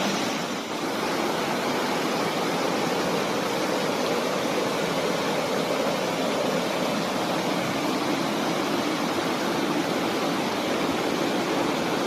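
A steady, even hiss that runs without a break.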